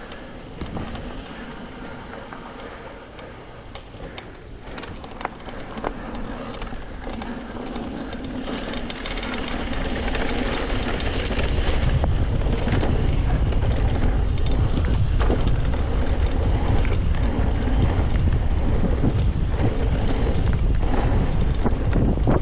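Mountain bike rolling down a dirt downhill trail: wind rushing over the camera microphone with the rumble of tyres and scattered clicks and clatter from the bike, growing louder over the first ten seconds or so as it picks up speed, then steady.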